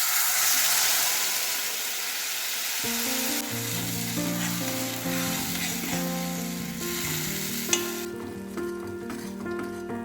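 Food sizzling as it fries in a hot pan, starting suddenly and easing off near the end. Background music comes in about three seconds in.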